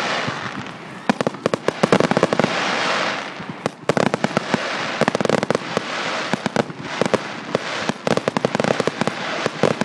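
Fireworks display: a rapid, continuous stream of crackles and bangs from bursting shells, with heavier swells of noise about two seconds in and again around the middle.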